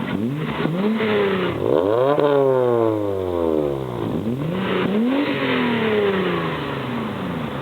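Car engine revving: the pitch climbs to a peak about two seconds in and slides slowly back down, then climbs again about five seconds in and falls away once more.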